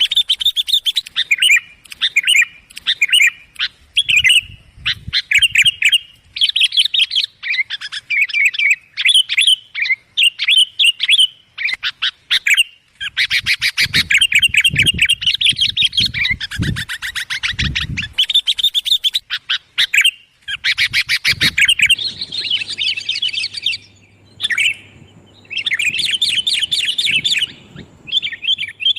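Sooty-headed bulbuls (kutilang) calling loud and clear in rapid, chattering runs of chirps, almost without pause, as used for a bird-lure call.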